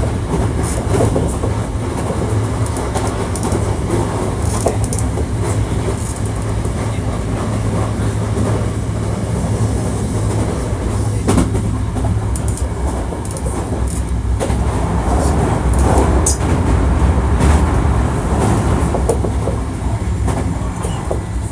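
Hankyu 1300 series electric train running at speed, heard from inside the passenger car: a steady, loud rumble of wheels on rail with a few sharp clicks.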